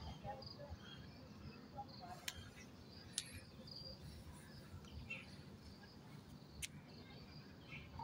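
Faint, scattered short high chirps of small birds, with three sharp clicks, two a little after two and three seconds in and one past six and a half.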